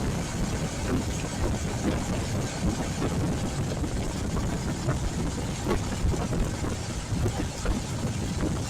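Royal Enfield Classic 350's single-cylinder engine running steadily while riding, with wind buffeting the helmet or action-camera microphone and scattered small knocks.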